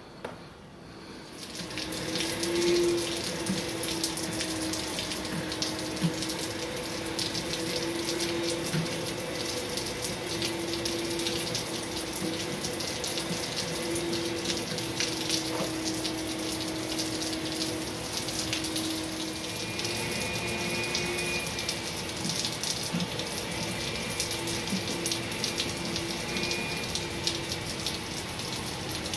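Steady rain falling and splashing on wet pavement and puddles, an even hiss of many drops that comes up about two seconds in, with a steady low hum underneath.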